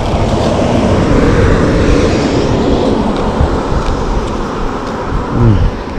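Loud, continuous rumbling wind noise buffeting the microphone.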